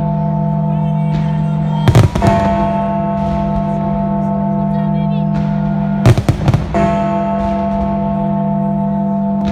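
Fireworks going off in two short volleys of bangs, about two seconds in and again around six seconds in, over music holding a steady sustained chord.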